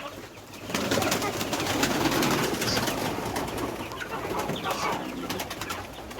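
Domestic pigeons cooing in their loft, with a busy stretch of rustling and small clatters starting about a second in.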